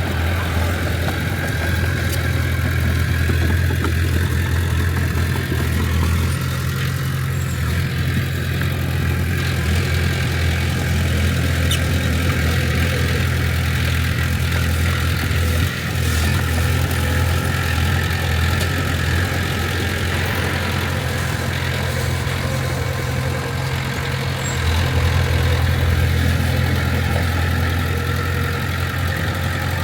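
Heavy-equipment diesel engine running steadily at a low, even pitch. There is a brief dip in level a little past halfway, and it gets slightly louder near the end.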